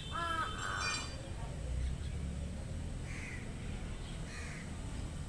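Crow cawing: one harsh caw right at the start, then fainter caws about three seconds and four and a half seconds in, over a low steady outdoor rumble.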